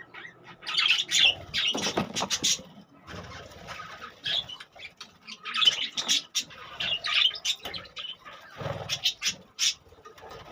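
Budgerigars chirping and squawking in bouts of short, high calls, with sharp clicks and a couple of dull thumps about two seconds in and near the end.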